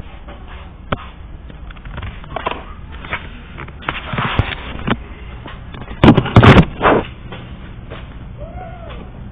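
Scattered knocks and thumps, with a cluster of loud bangs about six to seven seconds in.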